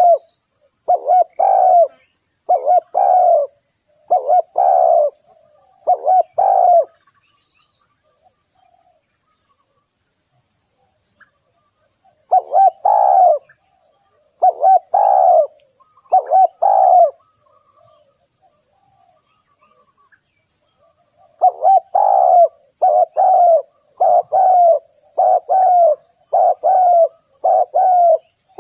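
Spotted dove cooing: three bouts of repeated coo notes, each bout several notes long, with pauses of a few seconds between them. It is the call of a decoy dove used to lure wild doves.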